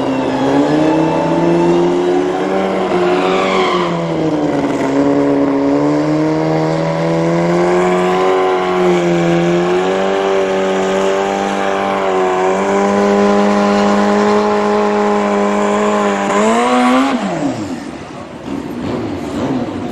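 A racing engine running hard at high revs, its pitch holding and wavering for a long stretch. Near the end the pitch rises, then falls steeply and the sound fades, as the vehicle passes by.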